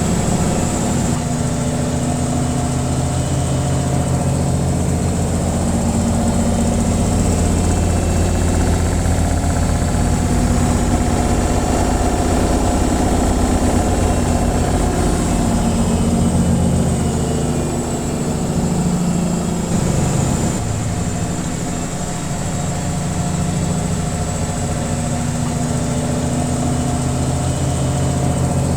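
Washing machine on its spin cycle: a steady motor hum with a low drone from the spinning drum, dipping slightly in loudness about two-thirds of the way through.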